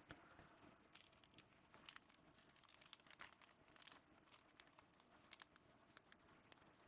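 Faint rustling, crinkling and small ticks of trading cards and pack wrappers being handled, in scattered short touches.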